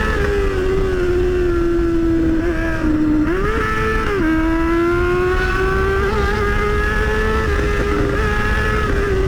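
Motorcycle engine running steadily at riding speed, with a brief rise in revs and drop back about three and a half seconds in. A low wind rumble on the microphone runs underneath.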